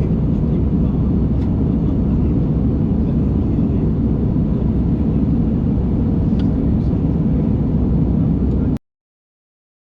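Steady cabin noise inside an Airbus A319 in flight: the even, low roar of the engines and airflow, cutting off abruptly near the end.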